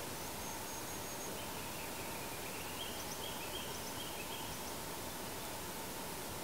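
A bird calling faintly: a thin high note, then a quick string of short chirping notes lasting a couple of seconds, over a steady background hiss.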